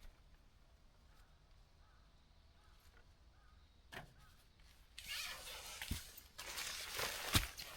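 A few quiet seconds, then tarp fabric and gear being handled, rustling and crinkling, with a couple of sharp knocks in the second half.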